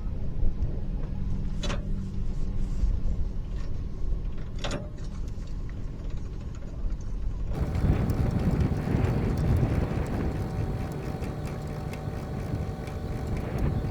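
A truck engine running steadily, with two sharp clicks in the first five seconds. About seven and a half seconds in, the sound changes abruptly to a louder, even rumbling noise.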